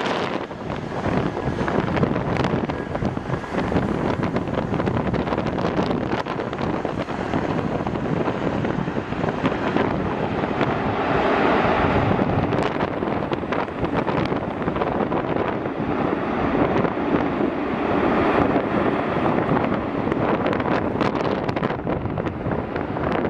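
Strong wind buffeting the microphone in irregular gusts, a dense rushing noise with sharp bumps, swelling a little about halfway through and again later.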